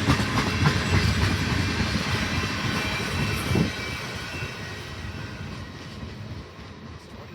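Freight train cars rolling past, a rumble with wheel clicks that fades steadily as the train moves away.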